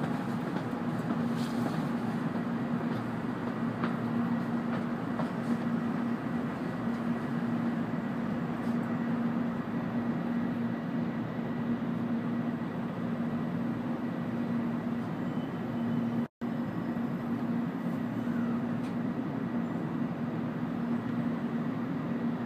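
Cabin noise inside an N700-series Shinkansen arriving at its station: a steady rumble with a low, constant hum. The sound cuts out for a split second about sixteen seconds in.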